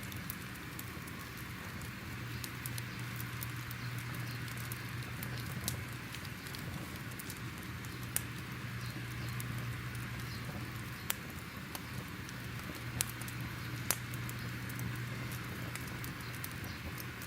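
Crackling fire ambience: a steady soft hiss with irregular sharp pops and crackles, over a low steady hum.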